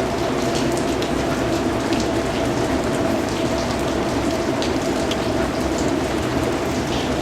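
Steady, even rain falling, with scattered individual drops ticking on a hard surface over a constant low rumble.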